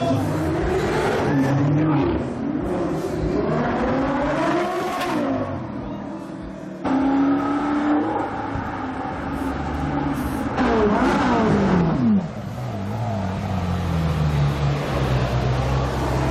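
Supercar engines revving and accelerating, with engine notes rising and falling, across several clips cut together. There is a sudden cut about seven seconds in, and a car accelerates past with a steeply falling pitch around eleven seconds in.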